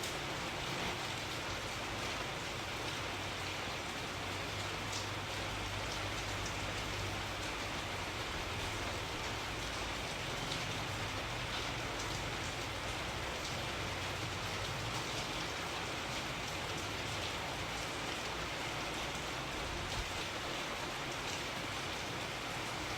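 Steady rain falling, an even hiss with scattered drop ticks over a soft low rumble.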